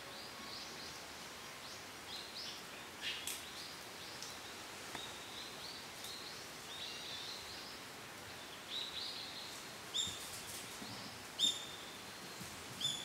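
Woodland birds chirping: short, high calls scattered throughout, with a few louder ones in the second half, over a faint steady hiss.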